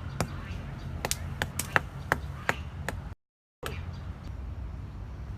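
A quick, irregular run of sharp knocks or taps that stops about three seconds in, followed after a short break by a steady low hum.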